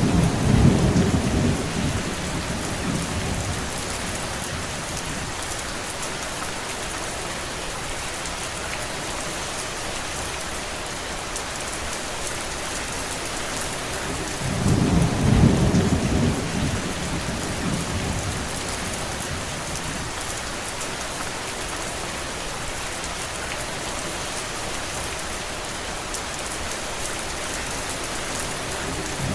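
Steady, even hiss of heavy rain falling, with a deep low rumble lasting a few seconds at the start and again about halfway through.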